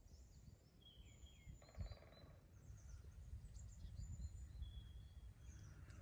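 Faint birdsong: thin high whistles and short chirps from small birds, with a brief buzzy call about two seconds in, over a low rumble.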